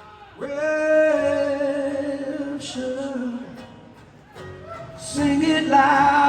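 Live rock music: a male lead singer holds long sung notes that slide in pitch, over a quiet band, growing louder and higher near the end.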